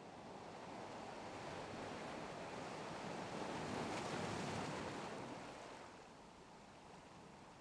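Faint rushing sea-and-wind ambience that swells to a peak about four seconds in, then fades.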